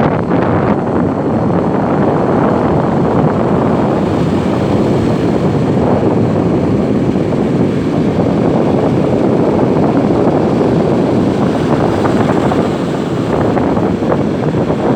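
Steady loud rush of wind on the microphone mixed with breaking surf.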